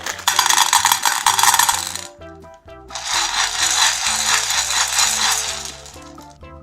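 Hard-shelled M&M candies clattering in two dense rattling bursts, about two and three seconds long, with a short gap between them. Background music plays throughout.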